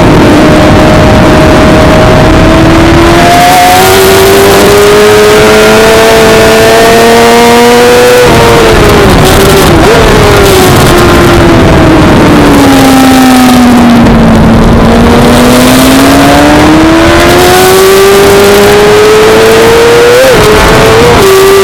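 Suzuki GSX-R600 inline-four race bike engine running hard on track: its note climbs for about eight seconds, drops suddenly, falls away to a low trough in the middle, then climbs again, with quick sharp pitch jumps near the end.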